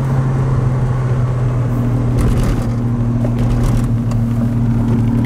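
1981 DeLorean DMC-12's Stage-2 PRV V6 engine with electronic fuel injection pulling at a steady engine speed while driving, heard from inside the cabin with road noise underneath.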